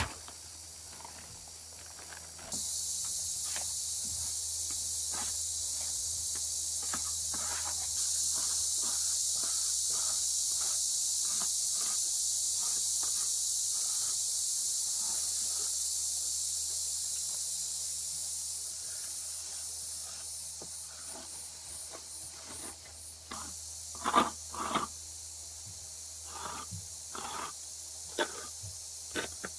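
A steady, high-pitched hiss cuts in about two and a half seconds in and fades out a little after twenty seconds. Scattered light knocks and taps follow near the end.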